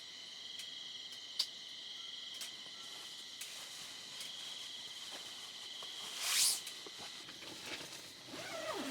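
Crickets trilling steadily in a pulsing chorus, with a few faint ticks. About six seconds in comes a brief loud swish, like a zipper or fabric. Near the end a wavering call starts, rising and falling in pitch.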